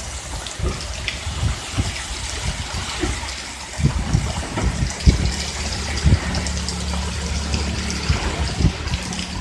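Heavy rain pouring down in a windstorm, a steady hiss of water, with gusts buffeting the microphone in irregular low thumps. A low steady hum comes in about four seconds in and fades out near the end.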